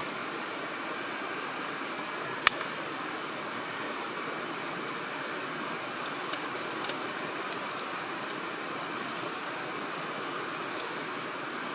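Campfire burning with a steady rushing hiss, one sharp pop of the wood about two and a half seconds in and a few small crackles later.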